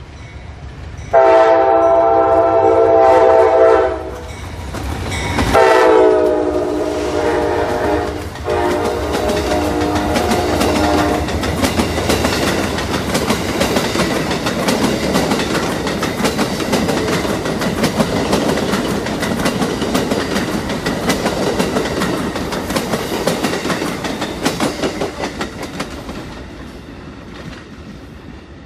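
Amtrak passenger train horn sounding two long chord blasts as the train approaches and passes. The second blast starts just as the pitch drops, and it breaks briefly before it stops. The cars then roll by with a steady clickety-clack of wheels over rail joints, fading near the end.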